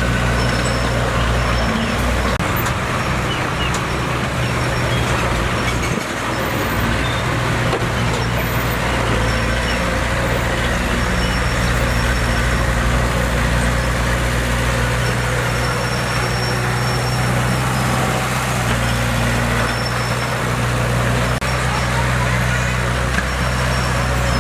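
Diesel engine of heavy earthmoving machinery running steadily under work, with a brief dip about six seconds in.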